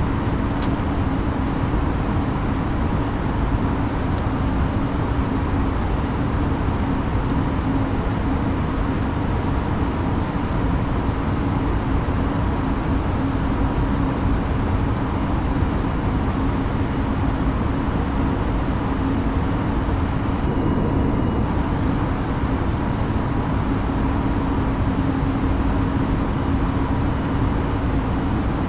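Steady cabin noise inside an Airbus A320neo airliner: an even rush of engine and airflow noise with a steady low hum running through it.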